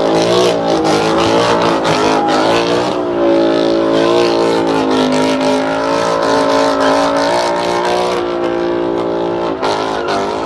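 Car engine revving hard and held at high rpm, its pitch wavering up and down, easing off slightly near the end.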